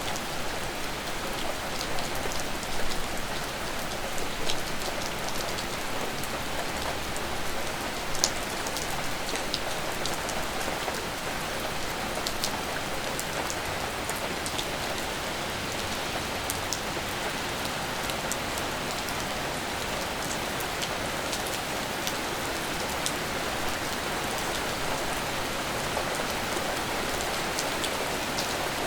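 Steady rainfall, with individual drops ticking and pattering on surfaces close to the microphone, a few of them louder, over an even hiss of rain.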